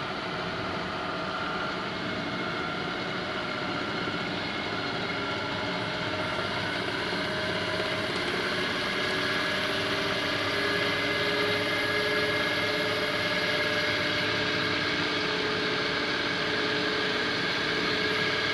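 Pro-max vertical milling machine's spindle drive running and being sped up, its whine made of several tones that climb slowly and steadily in pitch as it gets a little louder, reaching top speed on the low range.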